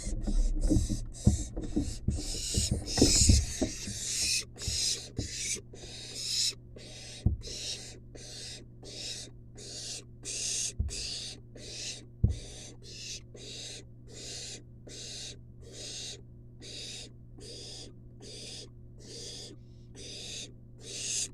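Barn owl nestling's hissing, rasping begging calls, repeated at an even rhythm of a little over one a second. In the first few seconds they come faster and louder, mixed with scuffling and a few dull knocks in the nest box. A steady low electrical hum runs underneath.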